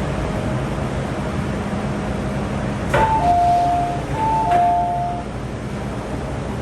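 MTR train car running steadily, with a continuous low rumble heard inside the cabin. About three seconds in, a click is followed by a two-tone chime sounding twice (high-low, high-low) from the train's public-address system.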